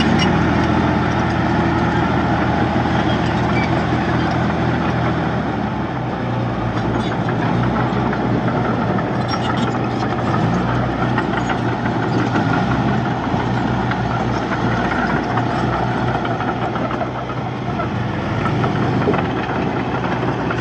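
Diesel engine of heavy earthmoving machinery running, steady for the first few seconds and then rougher and shifting in pitch as it works.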